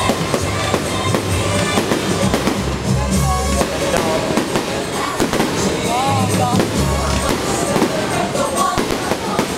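Aerial fireworks bursting and crackling in quick succession over loud music with heavy bass.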